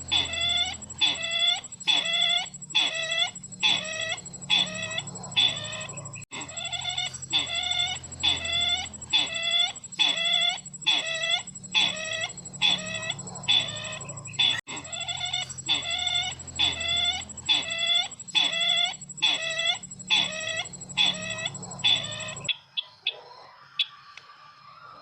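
Recorded call of the bird known locally as sisintar ladang, played as a lure for bird trapping. Short, sharp calls repeat about twice a second over a faint steady high whine from the playback, restarting twice as the recording loops, and stop about 22 seconds in.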